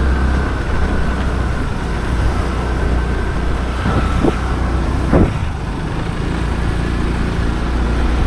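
Motorcycle engine running steadily while being ridden uphill, with two short sharp sounds about four and five seconds in.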